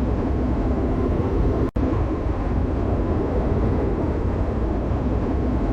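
A steady low rumbling noise that cuts out for an instant about two seconds in.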